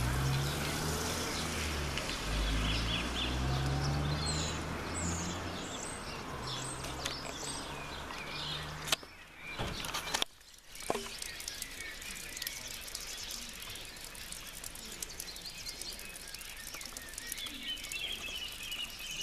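Small birds chirping against steady outdoor background noise, with a low rumble under the first half. The sound breaks off abruptly twice, about nine and ten seconds in, then goes on as a quieter hiss with scattered faint ticks and more chirps near the end.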